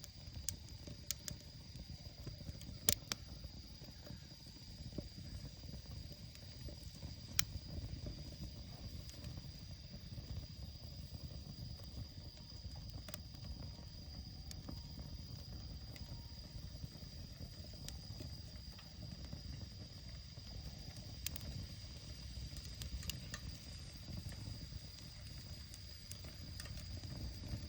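Damp firewood burning in a Solo Stove Campfire fire pit: a low steady rush of flame with scattered sharp crackles and pops, the loudest about three seconds in and again about seven seconds in.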